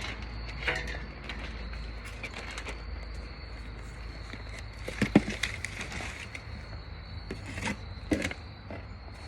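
Insects drone steadily on one high note, with a few short knocks and clatters: one near the start, a pair about five seconds in, and two more near the end.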